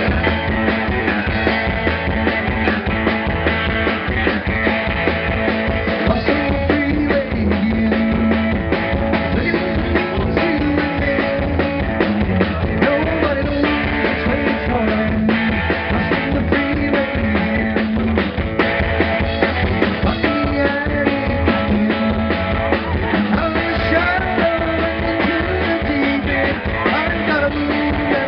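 Live rock band playing loudly: electric guitars, bass and drums kick in together at the start and drive on steadily, with a wavering melodic guitar line on top. The audience recording sounds dull, missing its top end.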